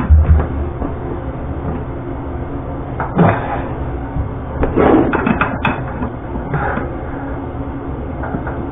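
Handling noises: a heavy thump at the start, then scattered clunks, clicks and rustling about three seconds and five seconds in, over a steady low hum.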